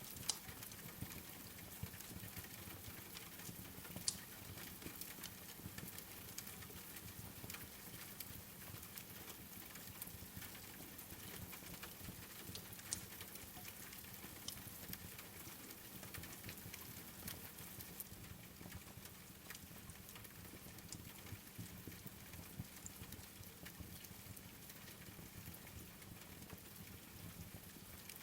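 Steady rain patter with a wood fire crackling: a stream of small pops and clicks and a few sharper ones.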